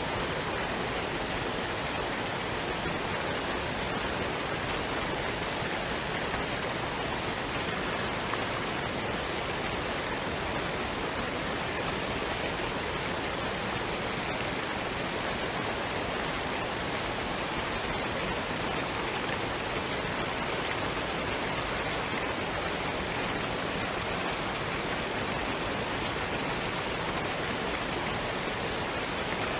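A waterfall and stream, water running in an even, steady rush that does not change.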